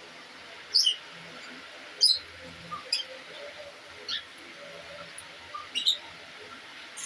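Caged aviary birds chirping: about five short, sharp high-pitched calls spaced a second or so apart, some sliding down in pitch, over faint background chatter.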